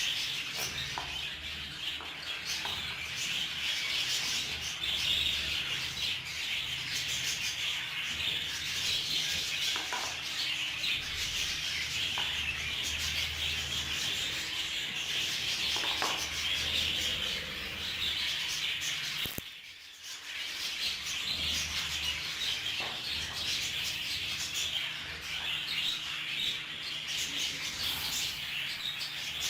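Budgie seed being winnowed with an electric fan: a steady rustling hiss of seeds and husks stirred in the airflow, with fine ticking of grains and a low fan hum. It drops out briefly about two-thirds of the way through.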